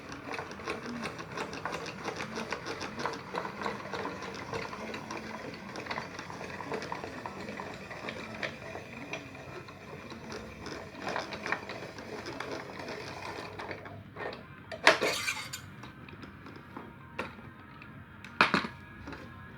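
Spiral potato cutting machine running a cucumber through its blade: a rapid, even metallic clicking and rattling for about thirteen seconds that then stops. Two loud knocks follow, one about fifteen seconds in and one near the end.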